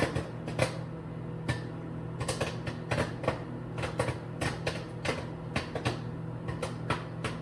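Microwave popcorn popping in its bag inside a running microwave: quick, irregular pops, several a second, over the oven's steady low hum. The popping is at its busiest.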